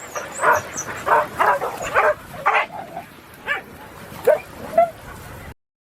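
Puppies barking and yipping in a quick series, about two short barks a second. The barks cut off abruptly near the end.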